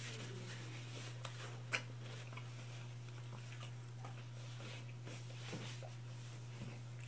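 Chewing of fried chicken with light rustling of a paper napkin, over a steady low hum. One sharp click comes about two seconds in.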